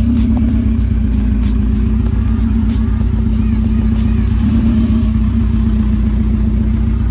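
Honda Civic four-cylinder engine idling steadily with the hood open.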